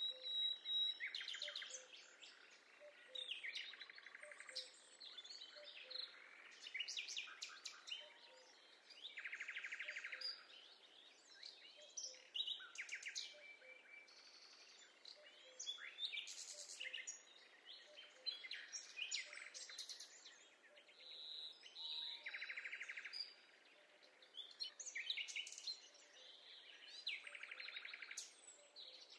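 Forest birdsong: several birds singing and calling in turn, with trills and whistled phrases, some about a second long, coming every couple of seconds over a faint steady background hiss.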